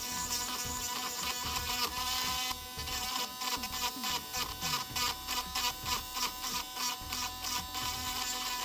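Small electric drill whirring as its bit grinds out a rust-pitted stone chip down to the metal. The grinding comes in quick, uneven pulses from about two and a half seconds in.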